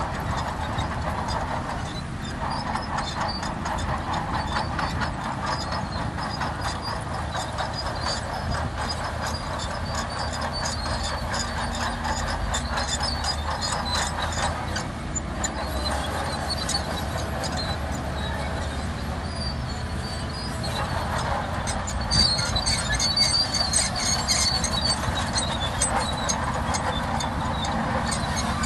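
Shantui DH17C2 crawler bulldozer running, its steel tracks squealing and clanking over a steady engine hum. The squeal is loudest about three-quarters of the way through.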